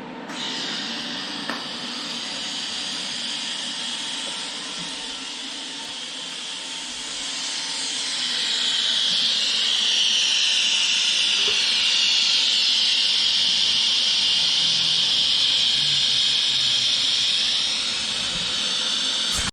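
A steady high-pitched hiss with shifting whine-like tones, getting louder about seven seconds in, then cutting off suddenly at the end.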